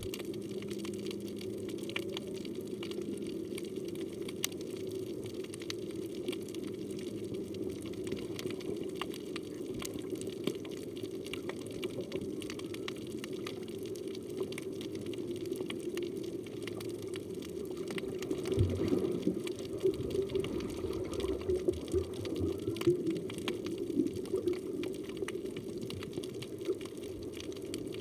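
Underwater reef ambience picked up by a phone in a waterproof housing: a steady low rush of water with scattered clicks. A faint low hum runs through the first several seconds, and louder low sounds come in from about two-thirds of the way through.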